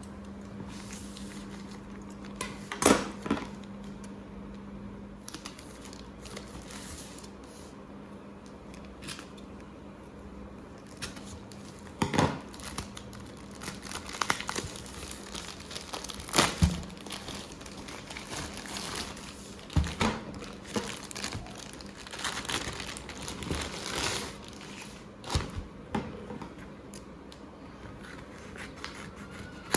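Crinkly packaging or plastic being handled and crumpled, with scattered sharp knocks and clicks; a low steady hum fades out about five seconds in.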